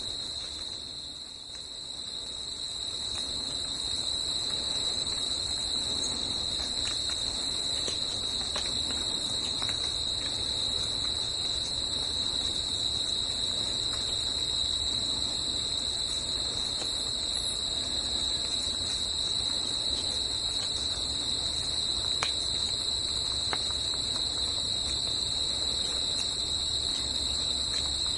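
Forest insects, crickets or similar, chirring in a continuous high chorus over a low steady rush of background noise, with a brief dip in loudness about a second in.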